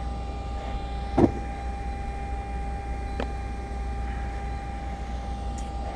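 A steady mechanical hum with a constant tone in it, broken by a sharp knock about a second in and a smaller knock about three seconds in.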